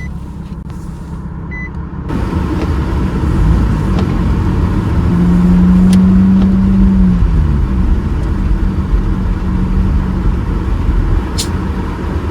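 Car engine running, then pulling away: tyre and road noise rise about two seconds in, and the engine note climbs, holds, then drops near seven seconds in as the car accelerates.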